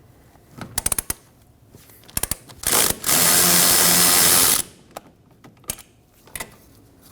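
A 10 mm bolt being taken out with a socket on an extension: a few quick ratchet-like clicks, then a power tool runs steadily for about a second and a half and stops abruptly as the bolt spins out, followed by a few light knocks.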